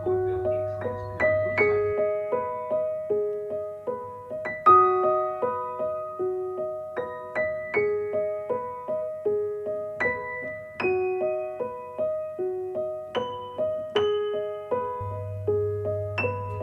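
Soft background piano music: a gentle, steady run of single notes repeating in a slow pattern.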